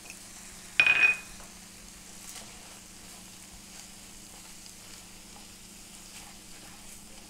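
Corned beef and potatoes sizzling in a pan as they are stirred, with one brief loud clatter about a second in: a metallic clink with a short ringing note.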